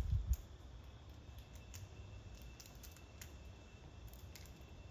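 Faint, irregular sharp clicks and crunches, several a second: a squirrel gnawing and cracking a peanut shell close by.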